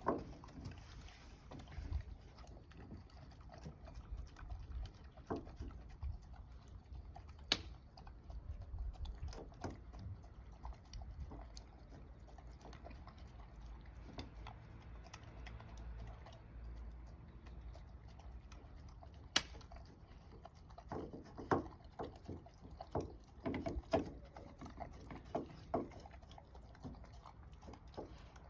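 Golden retriever eating wet food: irregular chewing and smacking, wetter and busier near the end, with a couple of sharp clicks and a low rumble underneath.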